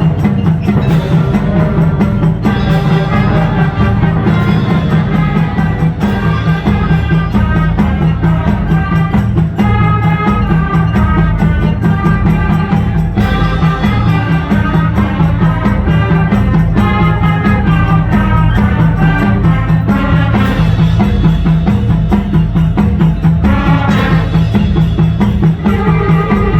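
Middle school concert band playing, full ensemble with drums and other percussion striking throughout.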